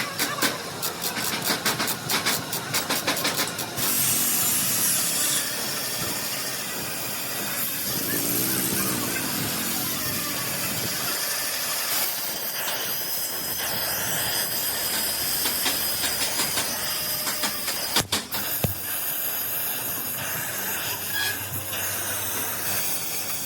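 Rapid, even clatter for the first few seconds, then a steady hiss.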